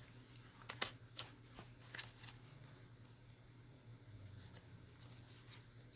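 Quiet handling of paper and thread while sewing journal signatures: a handful of light clicks and rustles in the first two and a half seconds, over a low steady hum.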